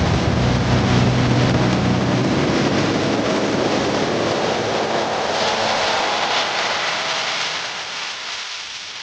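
Small petrol generator engine running. Its low hum fades over the first few seconds, leaving a rushing noise that slowly dies away.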